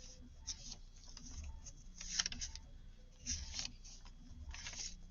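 Paper sheets rustling as they are handled and turned, in four short brushes about a second apart.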